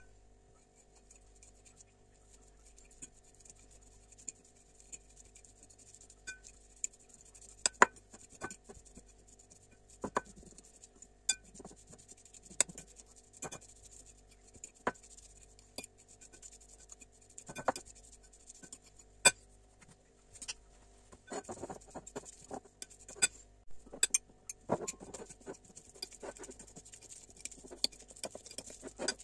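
Kitchen utensils clinking, tapping and scraping against bowls and dishes as food is prepared, in irregular single knocks that grow busier with scraping about three-quarters of the way in, over a faint steady hum.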